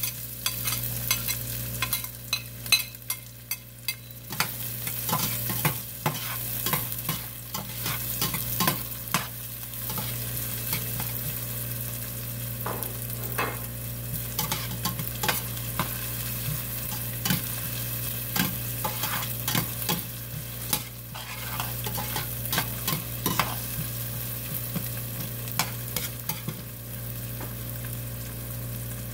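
Diced onion and garlic sizzling in hot oil in a stainless steel pot, with a metal slotted spoon stirring and clinking against the pot's sides and bottom. The clinks come thickest in the first few seconds, as the onion is scraped in.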